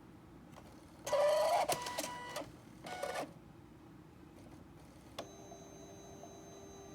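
Canon PIXUS iP90v portable inkjet printer's mechanism running in two bursts, a longer one about a second in and a shorter one around three seconds, with a short rising squeal among the mechanical noise. It makes the abnormal squeaking noise that the owner takes for a fault. After about five seconds a faint steady whine sets in.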